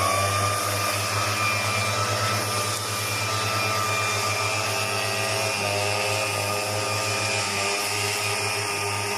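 A small petrol engine on a hand-held power tool running steadily at high speed, with a strong hiss over it and a slight wavering in pitch a few times.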